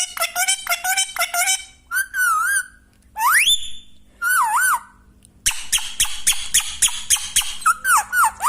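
Parrot calling: quick runs of short repeated squawky notes, with a few warbling whistles and one clear rising whistle between them in the middle.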